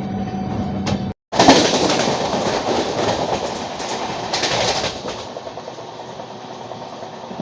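Passenger train running on the rails with clickety-clack rolling noise. It starts loud about a second in and eases to a quieter steady run after about five seconds.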